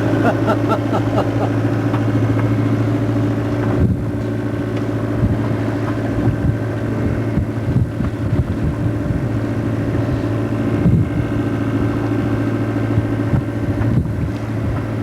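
A motor running steadily with a constant low hum, with a brief break about four seconds in.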